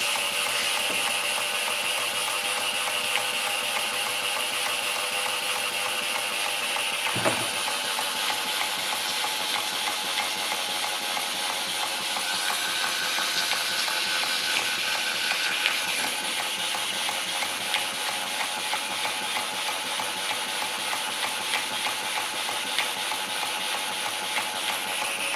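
A small live-steam model mill engine runs steadily on steam from a Jensen 30 boiler, with a constant hiss of steam. There is one sharp knock about seven seconds in.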